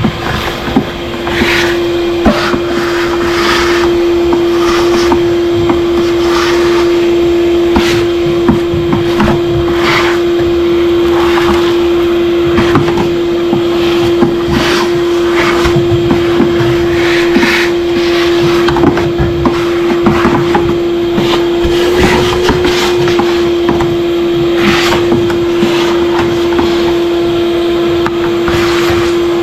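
Shop vac running with a steady whine while its hose sucks up leaves and debris from inside an air conditioner's condenser unit, the debris rattling and clicking through the hose.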